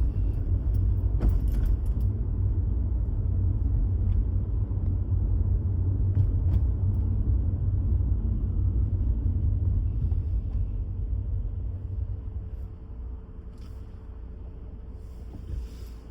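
Low steady rumble of a vehicle, with a few light clicks; it dies down about twelve seconds in, leaving a faint steady hum.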